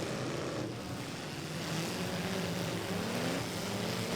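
Several pickup truck engines revving and running at once, their pitches rising and falling as the trucks accelerate and back off in a demolition derby.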